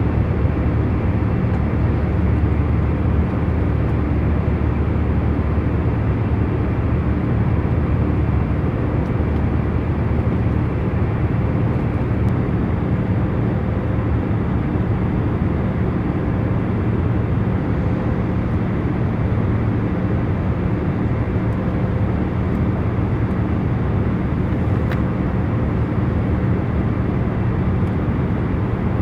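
Airliner cabin noise in cruise: a steady low rush of engine and airflow, with a faint constant hum.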